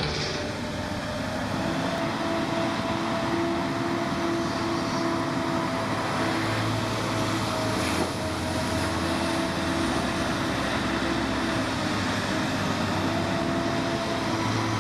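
A vehicle engine running steadily, with a steady hum over a noisy rumble and a brief click about eight seconds in.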